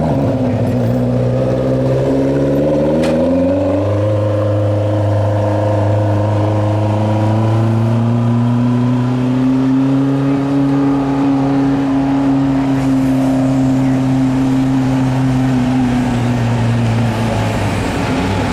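Tractor engine revving up over the first few seconds, then running at high revs under steady load for about twelve seconds, easing off shortly before the end.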